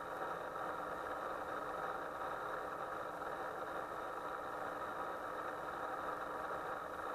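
A motor running with a steady, unchanging hum and a faint high whine.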